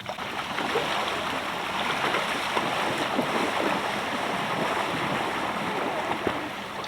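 Ocean surf washing and water splashing steadily, with many small splashes, as people wade into the cold sea.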